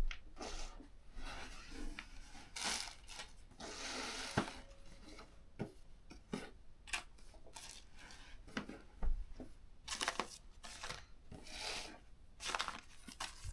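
Irregular handling noises: scattered clicks and knocks with rustling and scraping between them, as objects are moved about and set down on a work surface.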